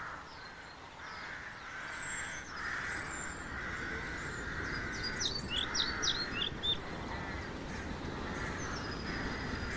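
Wild birds calling, with a cluster of quick, high chirps a little past the middle over a steady background of calls.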